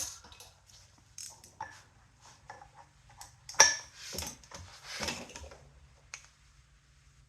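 Hand-held torque wrench ratcheting and clicking in irregular metallic ticks as the flywheel nut is tightened toward 90 foot-pounds, with one sharp, ringing click about three and a half seconds in.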